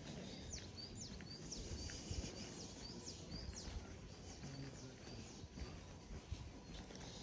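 A small bird calling over and over, about once a second: each call a quick falling note followed by a short high chirp, over a low steady background rumble.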